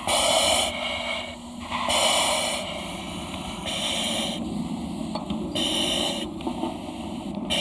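Repeated hissing breaths through a breathing-apparatus face mask, several in a row, each lasting about half a second to a second.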